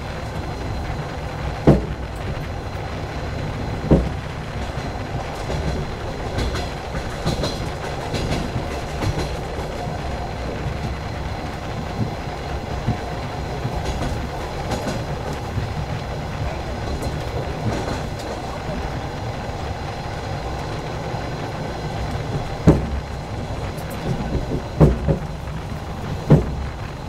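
Moving passenger train heard from a carriage window: a steady running noise of wheels on rails. Sharp clacks of the wheels over rail joints come about two and four seconds in, then several more near the end.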